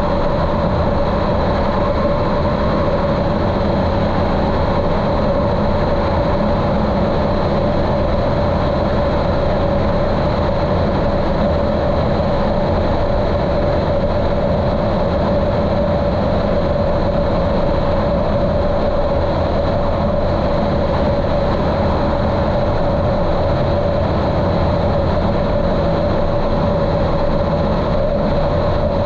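Continental O-200 four-cylinder engine of a Cessna 150L running steadily at constant power, heard muffled from inside a GoPro waterproof case.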